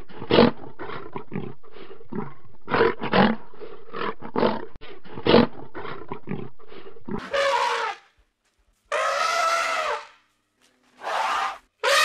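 Lion roaring: a run of short roars, about three a second, for the first seven seconds or so. Near the end come three drawn-out calls, each falling in pitch, from another animal.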